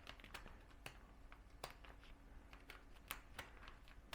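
Near silence: quiet room tone with a few faint, scattered clicks from a plastic package being handled after being cut open with scissors.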